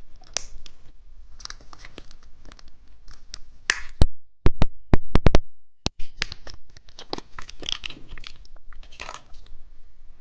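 Plastic candy wrapper of a grape burst-filled gummy crinkling and being torn open. A run of sharp, loud clicks comes about four to six seconds in.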